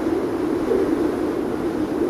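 Wind howling: a steady low moan whose pitch wavers a little, over a continuous rush.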